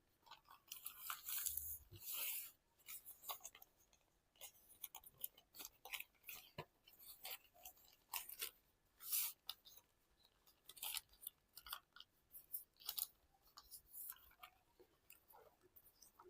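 Faint rustling and crackling of a sheet of origami paper being folded and creased by hand, in many short, irregular bursts.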